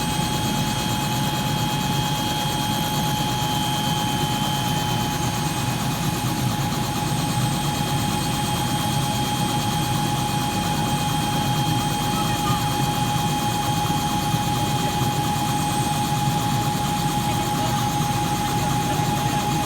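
Helicopter running on the ground: a steady high turbine whine over a constant low rotor and engine rumble.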